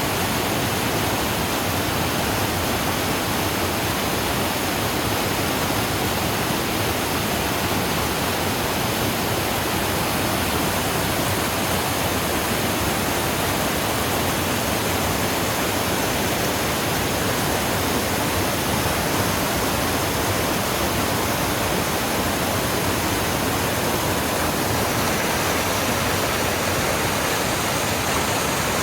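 A small waterfall on a creek: water falling and splashing in a steady, even rush.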